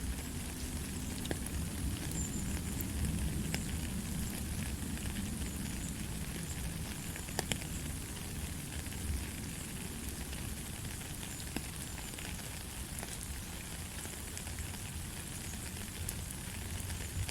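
Steady rain falling: an even hiss with scattered sharp drop ticks and a low rumble underneath, no thunder.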